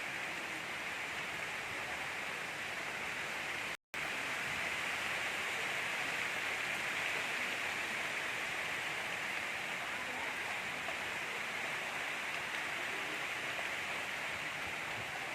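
Gentle rain falling as a steady, even hiss, with no thunder. It cuts out for a split second about four seconds in.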